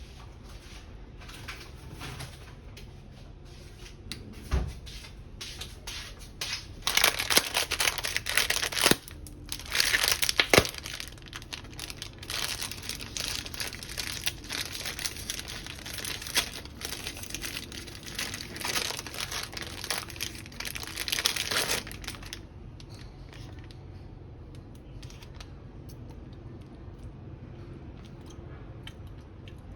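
Packaging being crinkled and torn, lightly at first, then handled hard and continuously for about fifteen seconds, with a few sharp snaps, before it stops.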